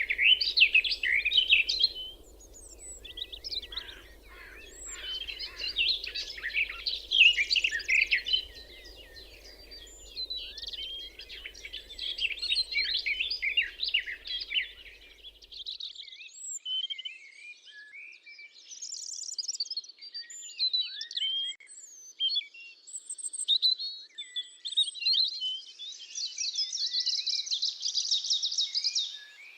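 Several songbirds singing at once: fast, overlapping chirps and warbling phrases, with a dense buzzy trill near the end. A faint low background hum underneath stops abruptly about halfway through.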